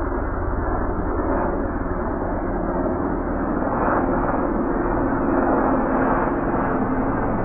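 Low-flying large aircraft passing overhead: a steady engine drone with a pitched hum that shifts a little lower about halfway through.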